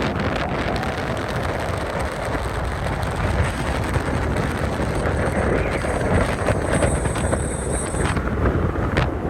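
Strong gale-force wind buffeting the microphone in a steady, heavy low rumble.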